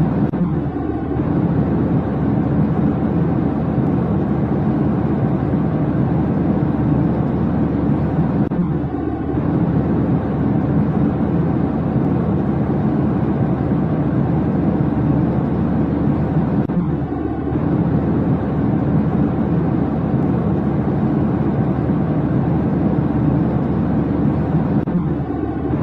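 Steady low roar of jet airliner cabin noise, with a slight change that repeats about every eight seconds.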